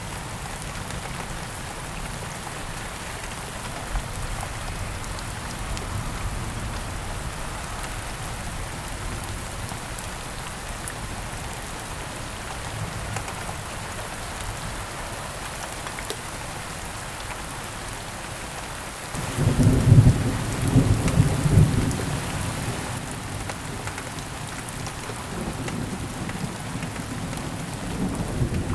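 Steady heavy rain falling on a rainforest canopy. About two-thirds of the way in, a loud clap of thunder breaks suddenly and rolls off over several seconds. Another low rumble builds near the end.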